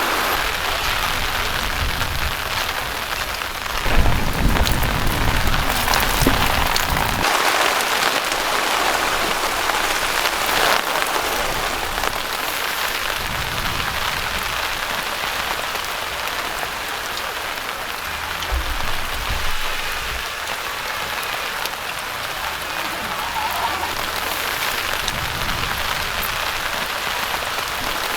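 Steady rain falling, heard as an even hiss, with low rumbles from about four seconds in and again briefly around the nineteen-second mark.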